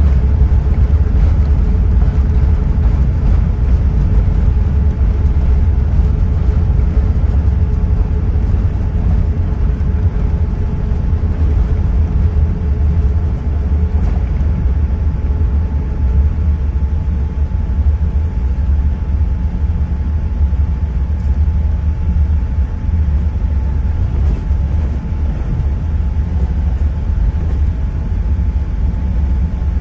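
Airbus A380 cabin noise heard from a lower-deck seat: a steady, deep rumble with a faint hum that fades out about halfway through.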